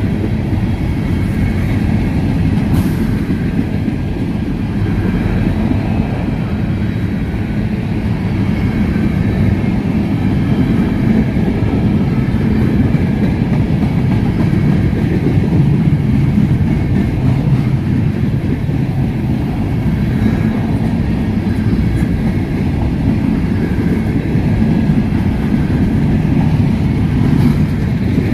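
Freight train of covered hopper cars rolling past, a steady rumble of steel wheels on the rails with a few faint clicks.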